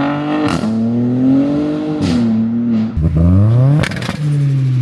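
Car engine revving hard, its pitch climbing and then dropping sharply several times, with sharp cracks at the drops.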